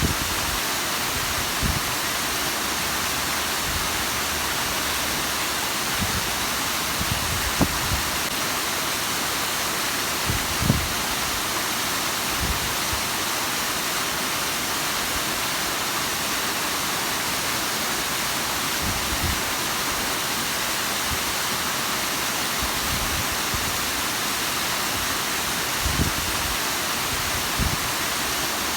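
Bigăr waterfall: water falling steadily in a dense, even rush, with a few brief low thumps.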